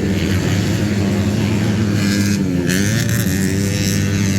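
Motocross dirt bike engines running and revving, their pitch dipping and rising about the middle, over a steady low drone.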